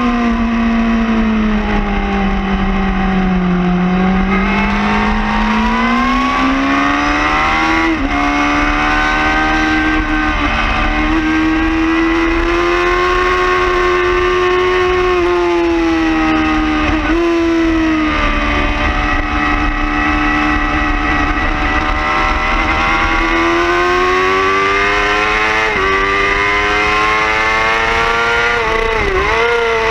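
2011 Yamaha R6's inline-four engine at high revs on track. Its pitch falls under braking over the first few seconds, then climbs and holds high, with brief breaks at gear changes about 8, 17 and 26 seconds in. A constant low wind rush runs underneath.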